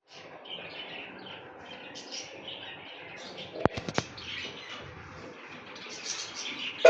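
Baby budgerigars chirping with a steady run of short, high calls. Two sharp clicks come a little past halfway.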